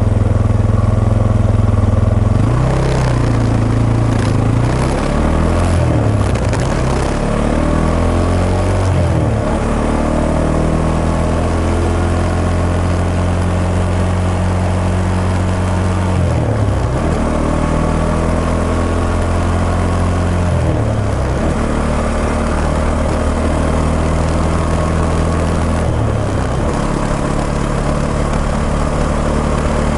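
Suzuki Djebel 250XC's single-cylinder four-stroke engine heard on board while riding, running steadily with its note dropping and climbing back several times: a cluster of throttle and gear changes a few seconds in, then single dips about every five seconds.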